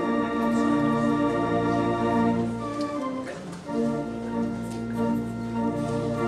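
Organ playing slow, sustained chords that change every second or so, with a brief softening about halfway through.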